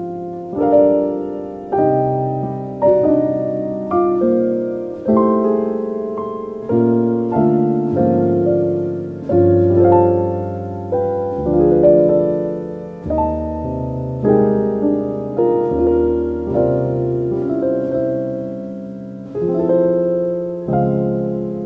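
Slow, calm solo piano music: notes and chords struck about once a second and left to ring and fade.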